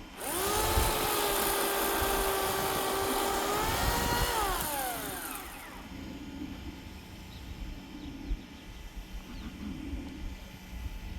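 Electric chainsaw motor spinning up quickly, running at a steady high speed for about four seconds, then winding down with a falling pitch once the trigger is released.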